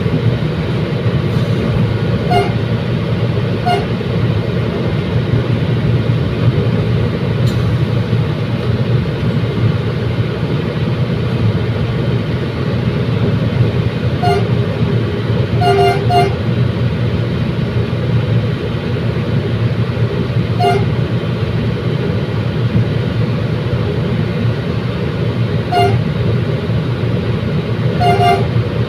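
Passenger train running along the track with a steady low rumble, broken by short sharp clacks at irregular intervals, some coming in quick pairs or threes.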